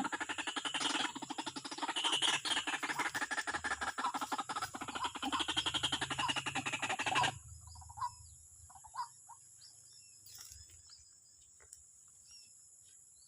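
A bird's rapid, rattling call of many notes a second, which cuts off suddenly about seven seconds in. Faint scattered chirps follow.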